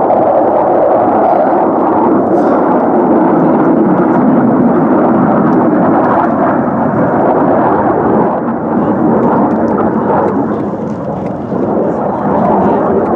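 Loud, steady noise of an aircraft flying low past, dipping a little and swelling again near the end.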